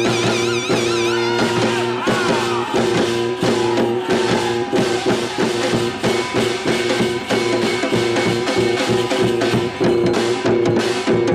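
Korean traditional (gugak) ensemble playing: a long held wind tone over sliding melodic lines and fast, steady drumming.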